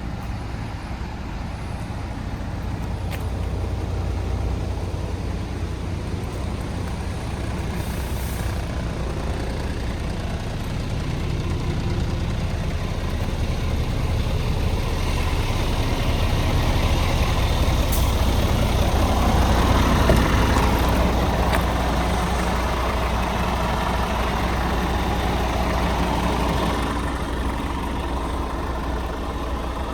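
Scania P 410 truck's diesel engine running steadily, building up louder from about halfway through and easing back near the end.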